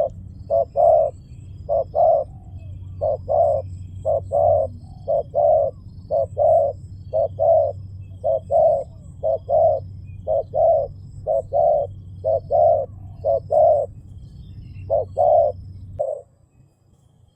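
Spotted dove (tekukur) cooing: a fast, steady series of short low coo notes in pairs and threes, with a low hum underneath. The cooing and the hum stop together about sixteen seconds in.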